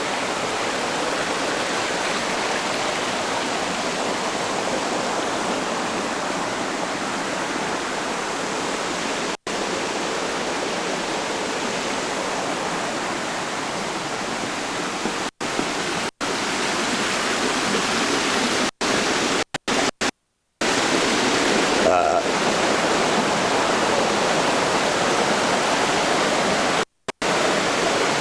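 Steady rushing noise spread evenly from low to high pitch, cut off abruptly several times for a split second, with the longest gap, about half a second, just after twenty seconds in.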